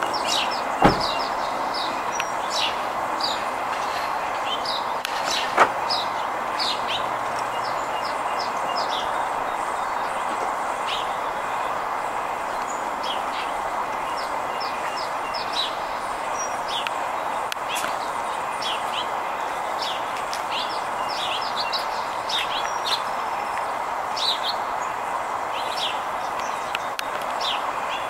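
Many short, high bird chirps repeated throughout over a steady background noise, with two sharp clicks early on.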